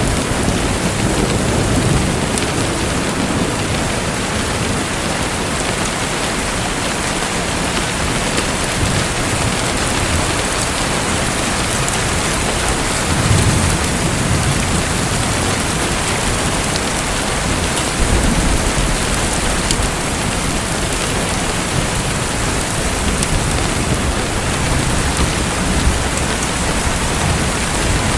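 Steady rushing hiss of falling water, with a few brief low rumbles.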